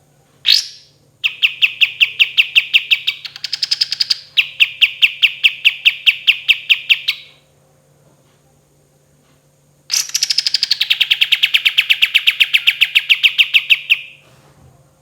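Kapas tembak bulbul singing: a short rising note, then long, rapid trills of about eight sharp repeated notes a second, the first with a brief higher-pitched stretch in the middle. The trills stop for a few seconds, then another long trill follows.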